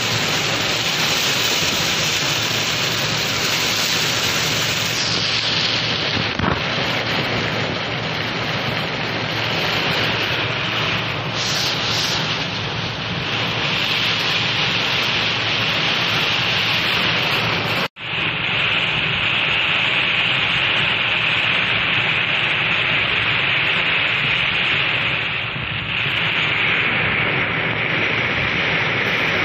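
Heavy rain pouring down in a strong windstorm: a loud, steady hiss of rain with no speech. It cuts out for a split second about two-thirds of the way through.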